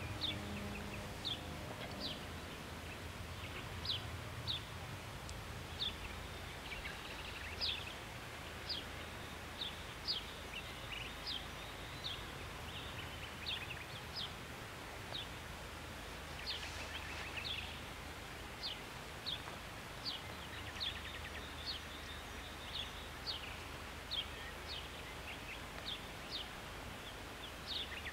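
A bird repeating short, sharp, high chirps at uneven intervals, roughly one a second, over a steady low outdoor rumble.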